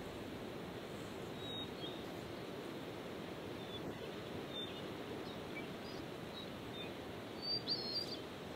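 Small bird giving a few short, high chirps, once about a second and a half in, again around four and a half seconds, and a quick cluster near the end that is the loudest moment, over a steady low outdoor background noise.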